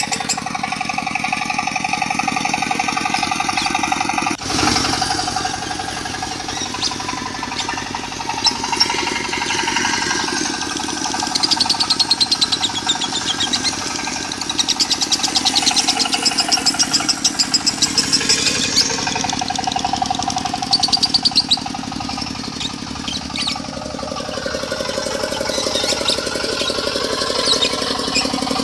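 Diesel engine running with a fast, steady knock, overlaid with a lovebird's rapid high-pitched chattering trills in the 'konslet' song style.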